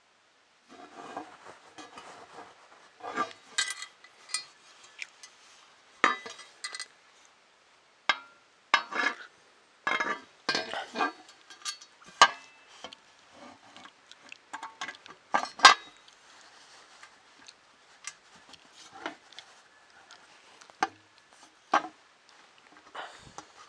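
Parts of a 3D printer kit being handled and fitted together by hand: irregular clicks, taps and clinks of small hard pieces knocking against each other and the bench, with short pauses between.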